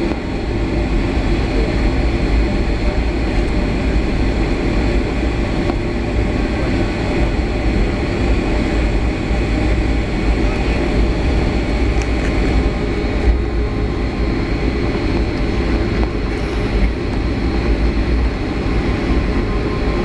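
Steady cabin noise inside a Boeing 757-300: a continuous deep rumble of the jet engines and airframe, with no big change in level.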